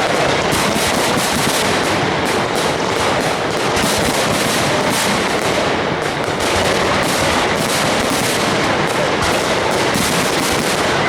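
Fireworks display of high-altitude shells bursting in a dense, unbroken barrage of bangs and crackle.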